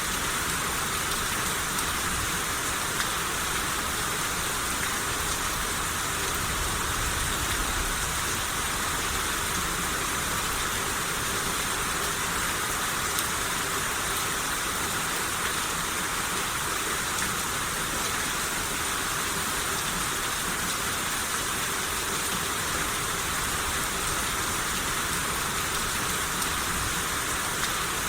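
Steady rain shower falling, an even hiss of rain without pauses or thunder.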